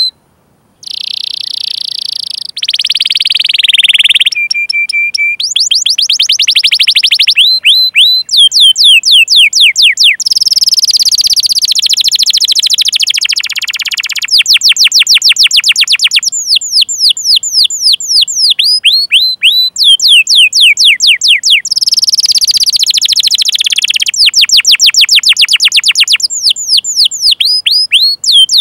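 Domestic canary singing a long song: rapid runs of falling 'cuit cuit' chirps alternate with fast buzzy rolls and trills, with one short steady held note. The song starts after a moment of silence.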